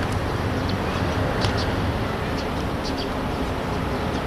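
Steady outdoor background noise at a ballfield, with a few faint short high sounds about a second and a half in and again near the end.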